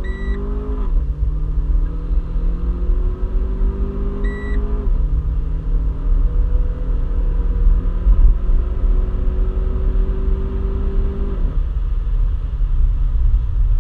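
Renault Clio 4 RS's turbocharged four-cylinder engine under full-throttle acceleration, heard from inside the cabin. The note climbs slowly and drops sharply at three upshifts, about a second, five seconds and eleven and a half seconds in. A short electronic beep sounds just before each of the first two shifts, over a steady low rumble of road and engine.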